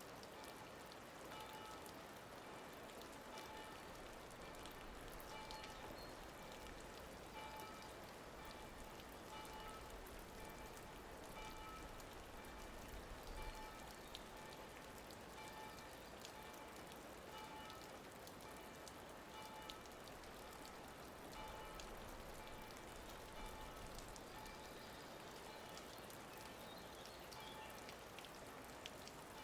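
Faint, soft background music with short, spaced notes over a steady rain-like hiss.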